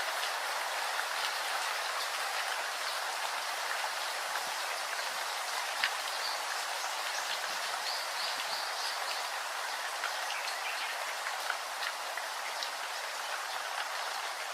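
Steady rain: an even hiss of falling rain with scattered drop ticks.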